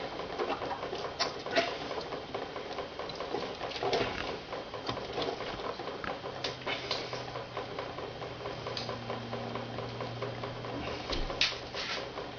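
Chicken plucking machine running with a steady rattle and scattered sharp clicks, and a low hum that comes in about halfway through and drops away near the end.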